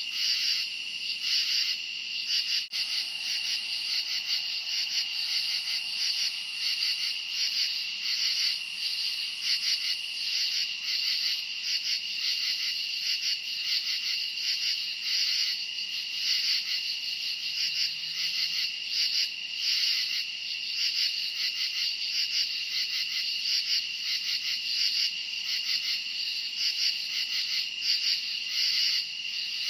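Crickets chirping in a dense night chorus: a continuous high trill with louder pulses swelling about once a second.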